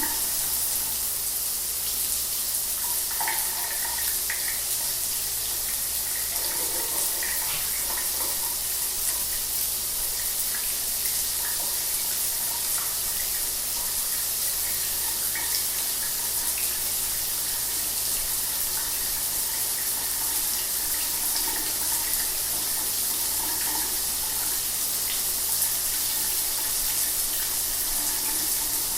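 Shower running steadily: a continuous hiss of spraying water with small splashes scattered through it.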